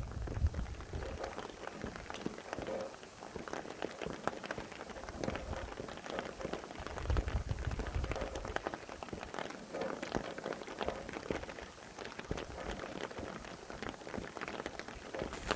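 Rain falling steadily, a dense patter of many small drops, with a low rumble of wind swelling for a moment about halfway through.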